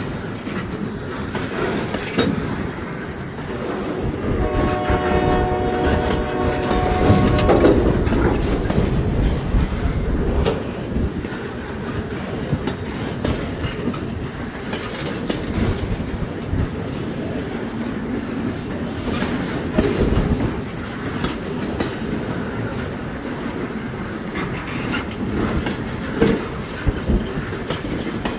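Freight train rolling by, its wheels clicking over the rail joints over a steady rumble. The locomotive horn sounds once about four and a half seconds in, for about three seconds.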